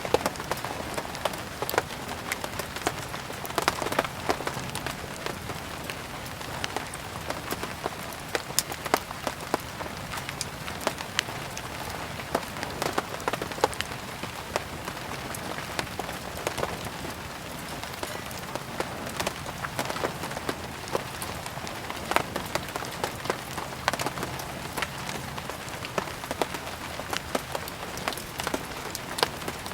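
Steady rain hiss mixed with a wood fire crackling: frequent sharp pops and clicks at irregular intervals.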